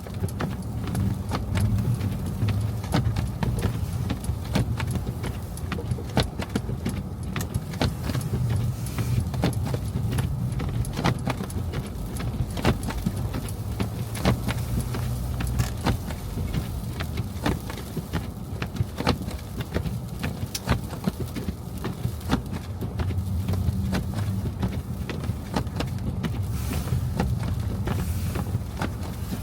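Car driving on snowy streets: a steady low rumble of engine and tyres, with frequent irregular clicks and rattles.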